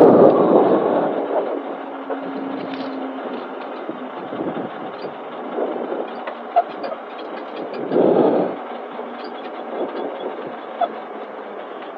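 Honda Civic rally car heard from inside the cabin while driving, a rough, steady rumble of road and drivetrain noise with rattles. It surges louder right at the start and again about eight seconds in.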